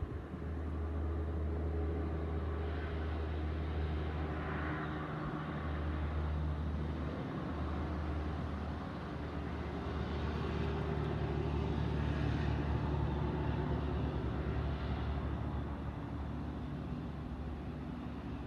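Steady low rumble of a motor vehicle engine running, with a constant pitch throughout.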